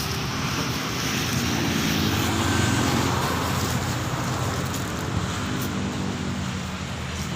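Road traffic passing close by: a steady rush of vehicles, with one engine loudest about two to three seconds in.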